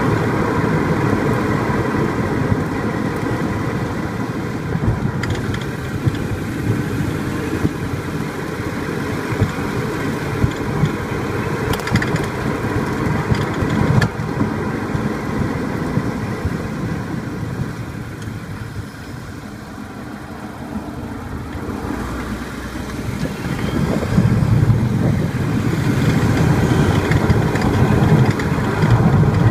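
Car driving over rough road, a steady rumble of road and engine noise broken by scattered sharp knocks from the front suspension area. The knocking is the front brake caliper rattling loose from vibration because one of its upper mounting bolts was missing. The noise eases off about two-thirds through, then builds again.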